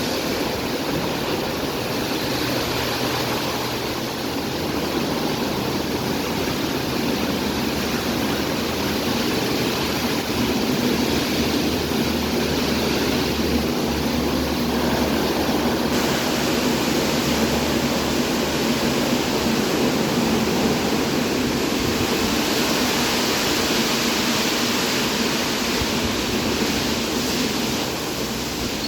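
Istobal M12+ rollover car wash running a wash pass: a steady rush of spraying water over a low machine hum, a little louder from about ten seconds in and easing off near the end.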